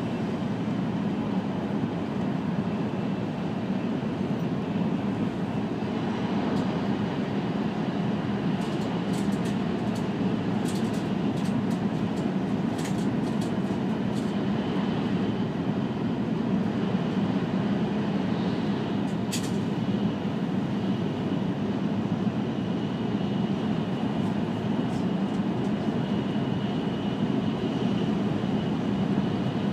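Steady running noise of an E5 series Shinkansen, heard from inside the passenger cabin: an even low rumble with a faint high steady tone over it, and a few faint clicks midway.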